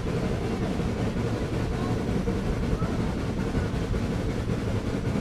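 Excursion train running on the track: a steady, dense low rumble and rattle.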